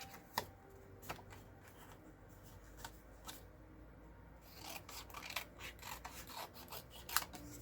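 Cardstock being cut by hand into small pieces, with short rasping cutting strokes, busiest in the second half, and a few light clicks.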